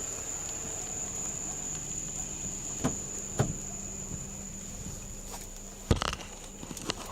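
Steady high-pitched drone of insects, with a few light knocks and a louder thump about six seconds in.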